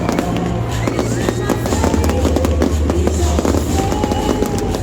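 Fireworks bursting and crackling in quick succession throughout, over loud music with a sustained bass line.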